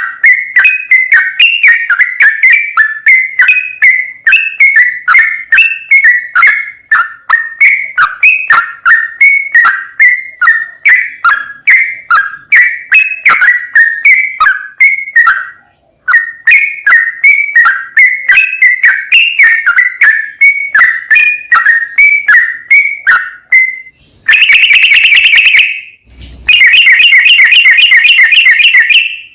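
Yellow-vented bulbul (trucukan) singing a long, fast run of short bubbly notes, about four a second, with a brief pause about halfway. Near the end it switches to a dense, rapid trill, broken once by a short gap.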